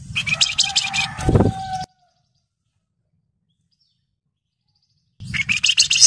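Javan fulvetta (wergan Jawa) giving rapid high chirping calls over a low rumble. The first run lasts about two seconds, with a thump about a second and a half in. After dead silence, a second run of chirps starts a little after five seconds in.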